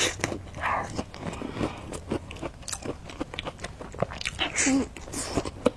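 Close-miked chewing of a macaron, with many short wet mouth clicks and smacks.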